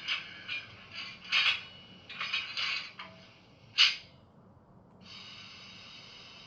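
Sound decoder of a DCC model locomotive playing through its small speaker: a run of irregular clanks and hissing bursts, one sharp clank near four seconds, then a steady running sound that starts about five seconds in.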